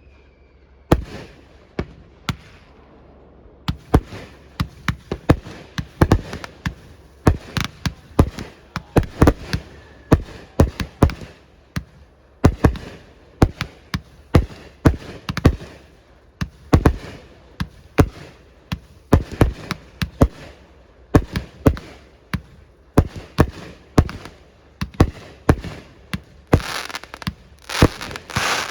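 Fireworks going off in rapid succession, a steady run of sharp bangs about one or two a second, each with a short echo. Near the end the bursts crowd together under a wash of crackling.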